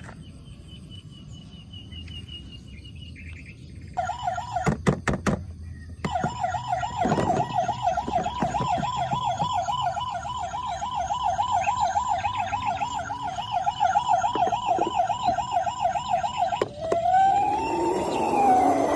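Electronic siren of a battery-powered toy emergency vehicle: a fast warble of about four cycles a second starting about four seconds in, broken briefly by a few clicks, then switching near the end to a slower rising-and-falling wail.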